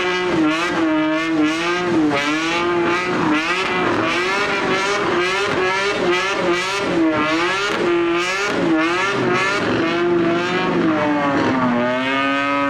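BMW E30's engine held at high revs during a burnout, the revs wavering quickly up and down, over the hiss of spinning tyres. About a second before the end the revs drop and hold lower.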